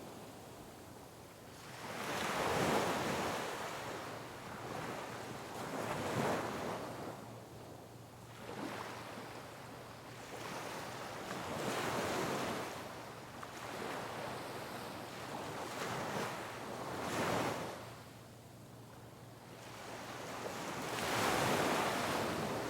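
Sea waves crashing on rocks, breaking in repeated surges every few seconds over a steady wash of surf.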